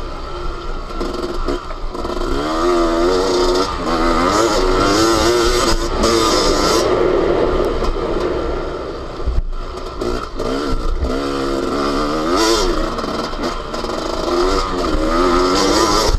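Yamaha YZ250 two-stroke motocross engine heard on board, revving up and down repeatedly as the rider accelerates and rolls off through the track, with wind noise and the odd knock from the bike over rough ground.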